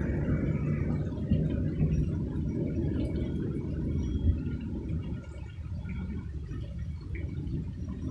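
Thunder rolling in a low rumble that slowly fades away.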